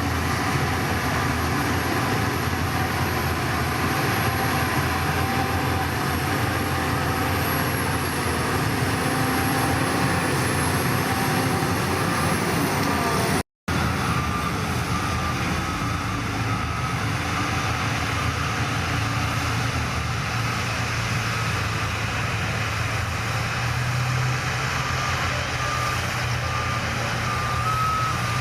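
Heavy diesel machinery engine running steadily. About halfway through, after a brief break, a reversing alarm starts beeping at an even pace over the engine as the machine backs up.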